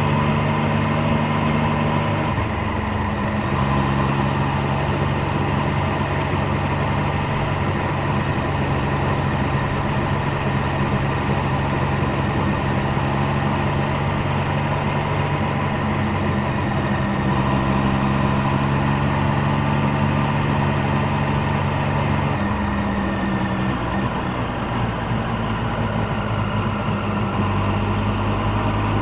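Triumph Street Triple 765 Moto2 Edition's 765 cc inline-three engine and exhaust, heard while riding at a fairly steady speed. The pitch holds steady for long stretches, drops a little about three-quarters of the way through, and shifts again near the end.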